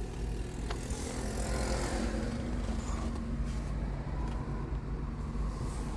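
Road noise of a moving car heard from inside the cabin: a steady low rumble with a faint engine hum.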